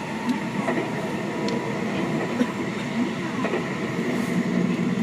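Seibu 6000 series electric train (Hitachi GTO-VVVF) running, heard from inside the passenger car: a steady rumble of wheels on rail with faint steady high tones and a few light clicks.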